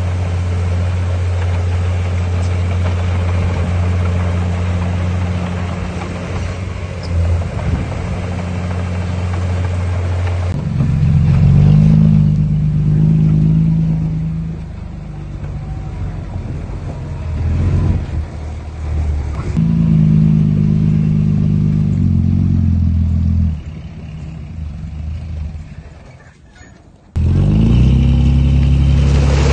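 Diesel engine of heavy earthmoving machinery running steadily, then rising and falling in pitch as it works under changing load from about ten seconds in. The sound fades down near the end and comes back abruptly a couple of seconds before the end.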